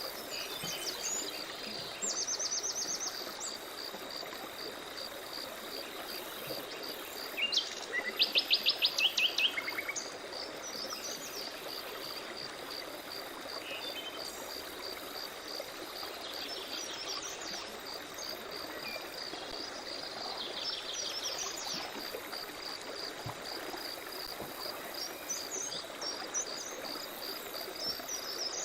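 Several songbirds calling over a steady, evenly pulsing insect chirp and a constant background hiss. The loudest is a fast run of sharp, repeated notes about eight seconds in, with shorter trills and phrases before and after it.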